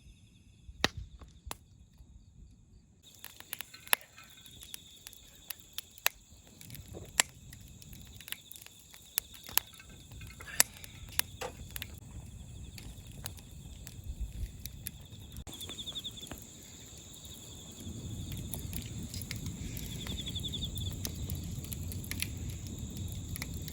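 Crickets chirring steadily outdoors at night, with scattered sharp clicks and crackles throughout and a low noise that grows louder about eighteen seconds in.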